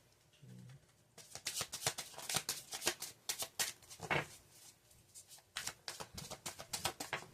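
Tarot cards being shuffled by hand: a quick run of card flicks and snaps in two spells, with a lull of about a second in the middle.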